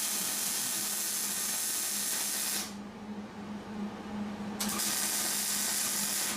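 MIG welder laying beads on roll cage tubing: steady arc crackle and hiss in two runs, the first stopping about two and a half seconds in and the second starting about four and a half seconds in, over a low electrical hum.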